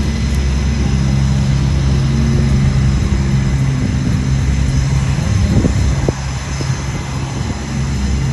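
Jet aircraft engines running with a steady, loud drone, and a few brief crackles a little past the middle.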